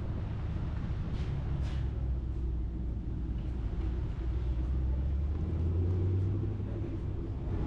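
Low, steady car engine rumble that swells about five seconds in and eases toward the end, with a couple of faint swishes of air or movement in the first two seconds.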